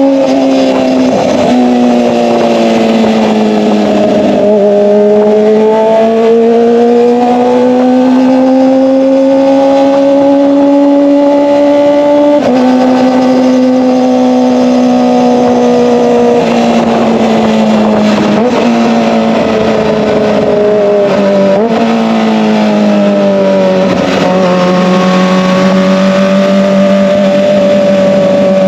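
Kawasaki ZX-25R's 250 cc inline-four running through an SC-Project exhaust under way. The pitch climbs and sags slowly, with sudden steps down and up that mark gear changes.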